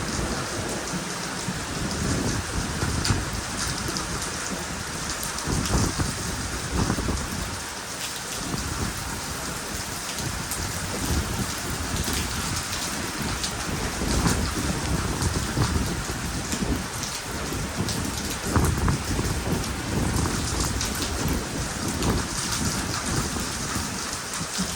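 Heavy thunderstorm rain and hail pouring down: a steady dense hiss with many small sharp hits and surging low rumbles.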